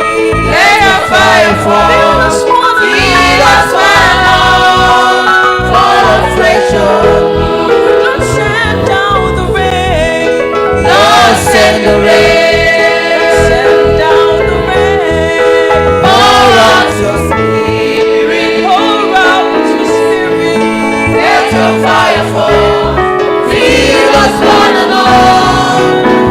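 Gospel choir music: a singer's voice, held and wavering, over steady instrumental backing with a continuous bass line.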